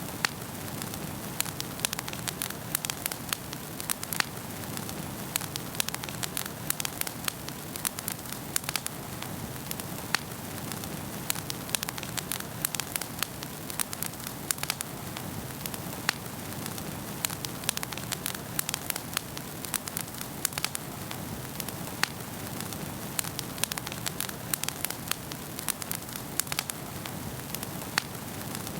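Wood fire burning in a fireplace, crackling and popping with frequent irregular sharp snaps over a steady rushing hiss of flame.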